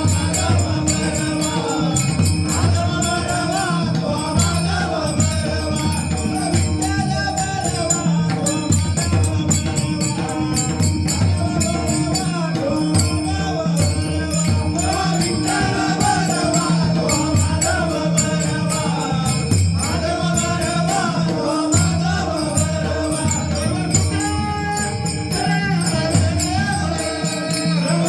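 Marathi devotional bhajan music: a pakhawaj barrel drum plays a steady rhythm of deep strokes under dense, jingling hand-cymbal strokes, with a held drone and a bending melody line above.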